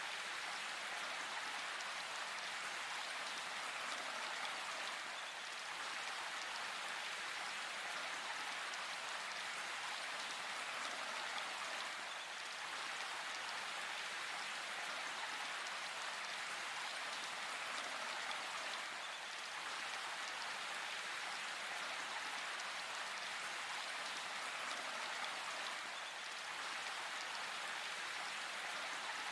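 Steady rain falling, an even hiss of countless drops with no thunder.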